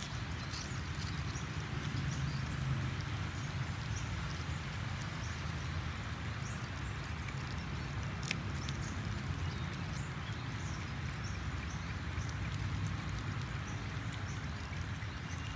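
Puppies eating: many small, irregular chewing and smacking clicks, with one sharper click about eight seconds in, over a steady low hum.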